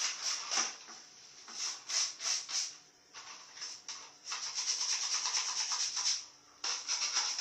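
Brush scrubbing a hard surface in groups of short, fast strokes, with a longer run of steady scrubbing starting about four seconds in.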